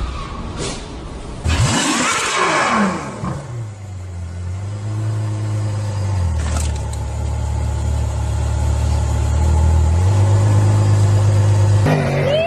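Car engine: a loud rush about a second and a half in with a falling pitch, then the engine settles to a steady low drone whose pitch steps down and back up a couple of times.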